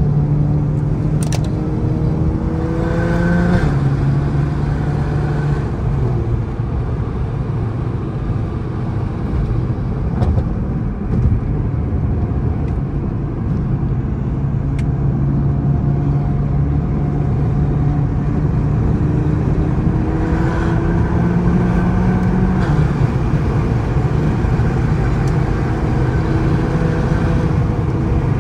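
A 2008 BMW E60 535i's tuned twin-turbo N54 inline-six with a straight-piped exhaust, heard from inside the cabin on the move. It climbs in pitch for the first few seconds, drops sharply at a gear change, runs steadily, then climbs again from about twenty seconds in and drops sharply once more at a second shift.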